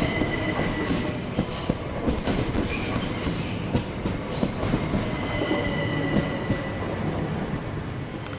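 Passenger train moving along the track through the station, wheels clicking over rail joints with high-pitched wheel squeal above a steady rumble.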